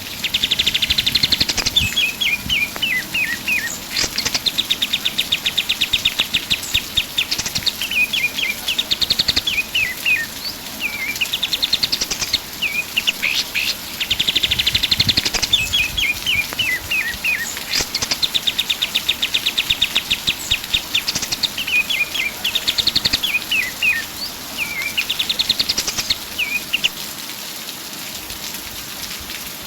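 A kapas tembak songbird singing vigorously in repeated phrases every few seconds: fast rattling trills, quick upward sweeps and falling chirps. The song stops near the end.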